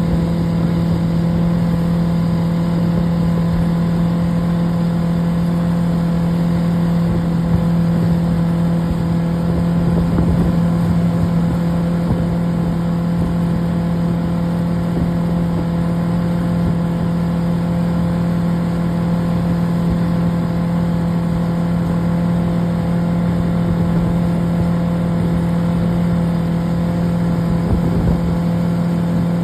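Motorboat engine running steadily at constant speed, a loud even drone with rushing water and wind noise underneath.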